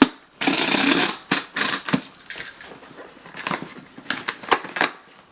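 A cardboard shipping box being cut open. About half a second in there is a loud stretch of cutting and tearing, then a run of clicks and short scrapes as the cardboard is worked.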